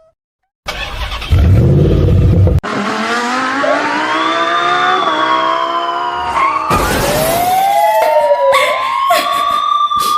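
Loud rumbling noise for about two seconds, then several overlapping long wailing tones that slowly rise and fall in pitch, broken by a few sharp loud bursts.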